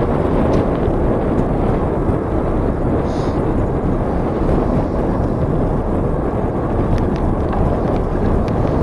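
Steady wind rumble on the microphone of a camera carried on a moving bicycle, with a few faint ticks near the end.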